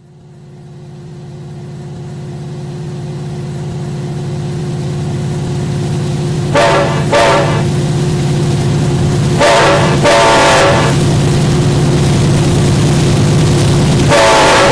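Diesel locomotive of Norfolk Southern 1069 approaching with its engine drone growing steadily louder. Its air horn sounds two short blasts about seven seconds in, a longer blast around ten seconds, and another long blast starting near the end.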